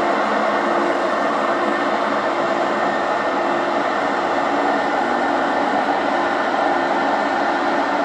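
Electric locomotive hauling a passenger train slowly out of a station. A steady hum with several held tones rides over a constant rolling rumble.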